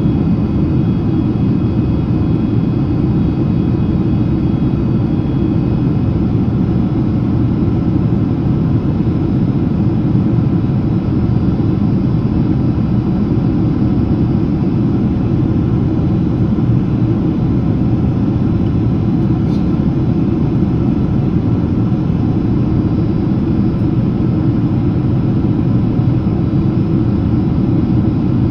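Steady cabin noise inside a Boeing 767-300ER in descent: a loud, even rush of airflow and engine drone with a few faint high tones, some of which fade out about six seconds in.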